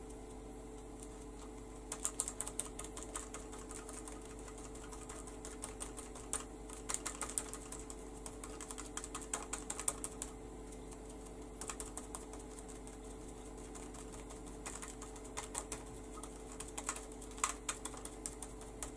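A makeup sponge dabbed quickly against paper through a stencil, applying ink in runs of light taps with short pauses, over a faint steady hum.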